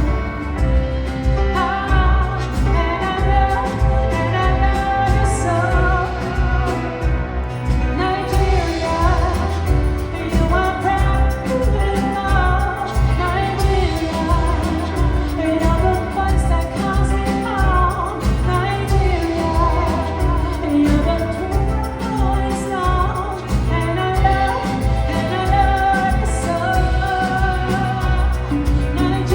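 A woman singing a soul-pop song live, over accompaniment with a steady beat and bass.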